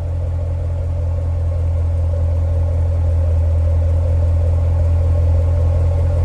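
The 6.2-litre LT1 V8 of a stock 2017 Corvette Stingray idling steadily through its factory active exhaust in regular mode, a low, even drone.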